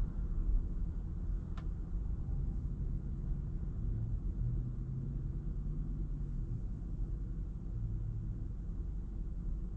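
A car driving along a road: a steady low rumble of tyre, road and engine noise, with a faint hum that comes and goes partway through.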